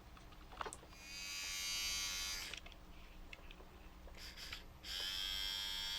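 Small electric gear motor of an Omnibot 2000 robot running with a steady whine for about two seconds, stopping, then starting up again about five seconds in. It runs evenly, and the motor proves to be fine.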